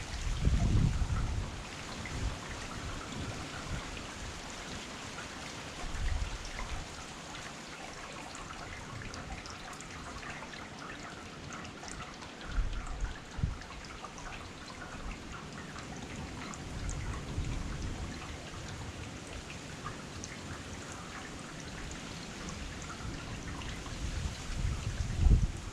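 Heavy rain falling steadily, with many individual drops pattering close by. A few brief low rumbles come and go through it.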